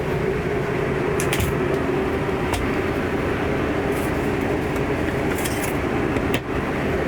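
Travel trailer's air conditioner running with a steady hum and fan noise, with a few light clicks over it.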